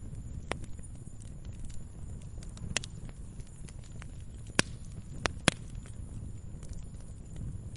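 Wood campfire burning: a steady low rumble with scattered sharp crackles and pops from the burning wood, the loudest few coming close together a little past halfway.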